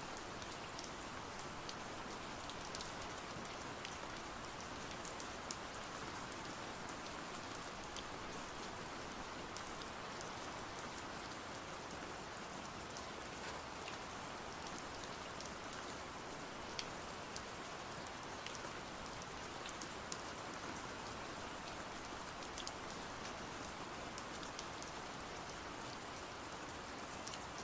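Steady rain falling, a constant even hiss with scattered sharp ticks of drops on a surface.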